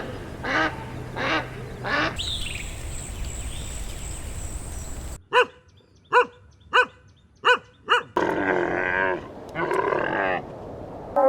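A run of different animal calls cut one after another. It opens with short calls repeated about every two-thirds of a second, then a stretch of noise with a faint high tone. Five short pitched calls follow, then two longer calls.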